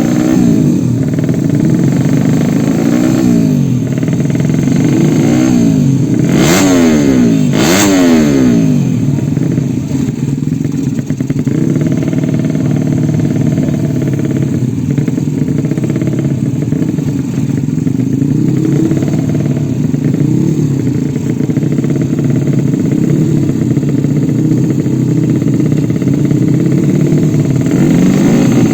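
Several motorcycle engines running and revving together, their pitches rising and falling; about six to eight seconds in, revs sweep sharply up and down.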